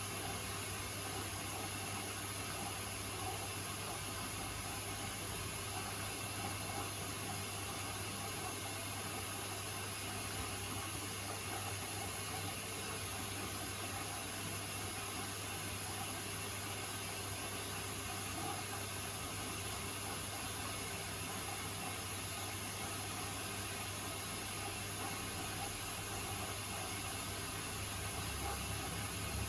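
Beko WTK104121A washing machine running mid-cycle: a steady hum with an even hiss. Near the end the low hum deepens slightly.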